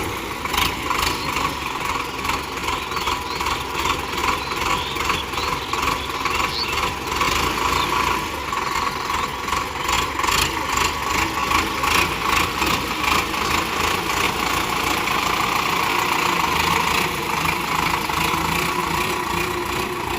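Tractor engine running steadily, with frequent clattering knocks over the top.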